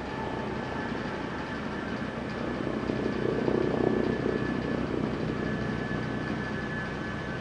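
Military helicopter's rotor and turbine engine running, a steady rotor chop with a turbine whine, growing louder for a couple of seconds in the middle and then easing.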